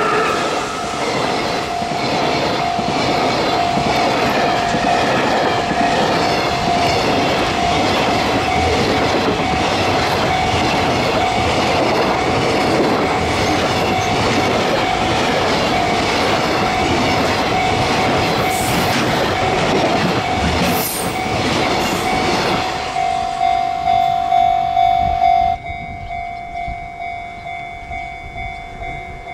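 Freight train passing close: an EF66 electric locomotive goes by at the start, then a long string of container flatcars rumbling and clacking over the rail joints. A level-crossing warning bell rings throughout in a steady pulse, about twice a second, and is left alone when the train noise cuts off about 25 seconds in.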